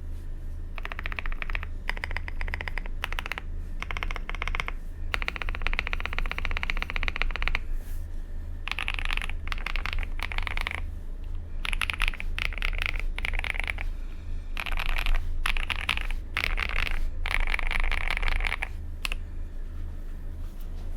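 Typing on a Monka3067 custom mechanical keyboard with lubed KTT Strawberry linear switches on a polycarbonate plate and PBT double-shot cherry-profile keycaps. The keystrokes come in fast runs of a second or two, separated by short pauses, and stop a couple of seconds before the end. A steady low hum runs underneath.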